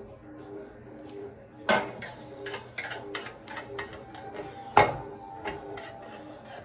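A spoon clicking and scraping against a plate while someone eats, with two sharp, louder knocks about two seconds in and again about five seconds in. Soft background music with a repeating melody runs underneath.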